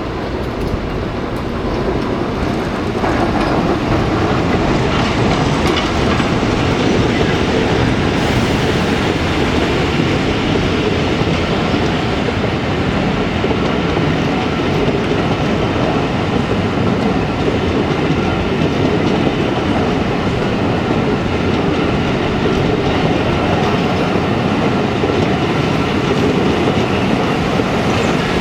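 A train running close by, its wheels clattering on the track, the noise building over the first few seconds and then holding steady.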